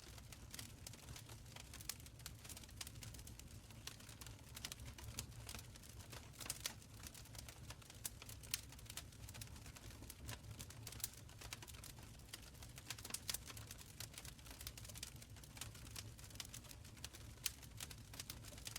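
Wood fire in a stone fireplace crackling: irregular sharp pops and snaps over a low, steady rumble of the flames.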